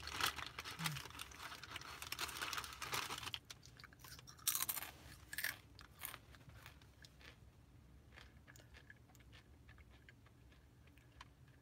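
A person chewing a mouthful of food close to the microphone. It is busiest over the first three seconds, with a couple of short louder bursts around four and five seconds in, then settles to quieter, sparser chewing.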